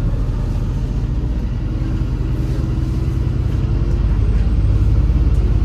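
MAZ-203 city bus engine running under way, heard from inside the passenger cabin: a steady low rumble that grows a little louder past the middle, as if pulling harder.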